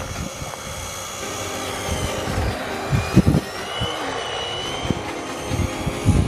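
Wltoys A979-B RC truck's electric motor whining, its pitch rising and falling as the truck speeds up and slows, over a steady rushing noise, with a couple of thumps about three seconds in.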